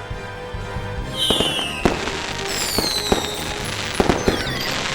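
Fireworks sound effects for a grand finale: whistling rockets falling in pitch and several sharp bangs with crackling, over background music.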